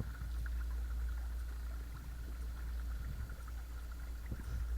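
Watersnake T24 12 V electric trolling motor running steadily, its rubbing vibration carried through the kayak hull as a low, even hum with a faint higher whine above it, over light water noise.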